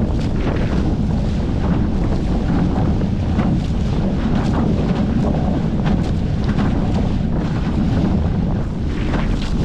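Wind buffeting the microphone aboard a Hobie 14 catamaran under sail, a steady low rumble, with water rushing and splashing past the hulls.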